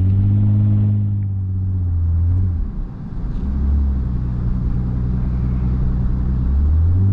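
Lexus IS250's 2.5-litre V6 running under way, with steady road and tyre noise heard from inside the cabin. The engine note drops about two and a half seconds in, then climbs again near the end.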